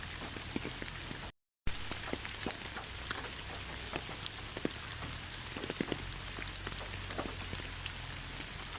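Steady rain falling, with many individual drops tapping distinctly over the even hiss. The sound cuts out completely for a split second about a second and a half in, then resumes.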